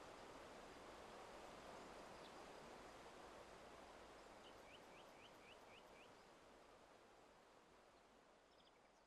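Near silence: faint outdoor hiss fading away, with a quick run of about six faint high chirps from a small bird a little past the middle.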